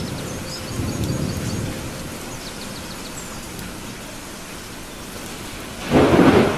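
Steady rain, with a low rumble of thunder dying away over the first couple of seconds. Near the end a sudden loud clap of thunder breaks in.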